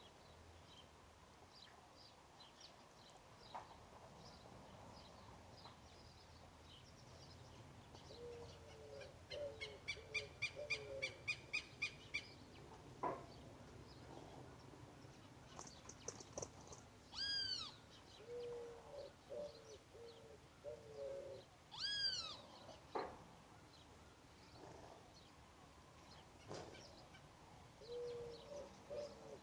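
Several wild birds calling. A low phrase of four or five notes repeats about every ten seconds. A run of about seven loud, clear, evenly spaced notes comes around a third of the way in, and two arched, falling calls come later.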